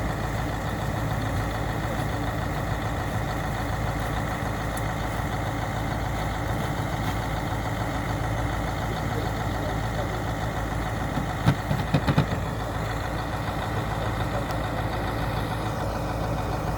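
A delivery truck's engine idling steadily. A quick cluster of a few sharp knocks comes about twelve seconds in.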